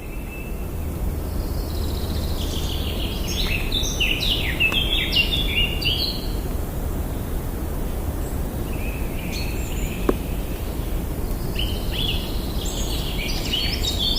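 Outdoor ambience: birds chirping in short clusters a few seconds in, around the middle and near the end, over a steady low background noise. A single faint click about ten seconds in.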